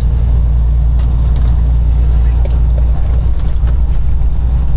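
Semi truck's engine and road noise as a steady, loud low drone inside the cab while driving at speed, with a few faint clicks.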